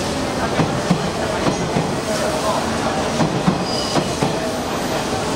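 Hanshin Railway train rolling past at the platform, its wheels clacking irregularly over the rail joints with a steady rumble.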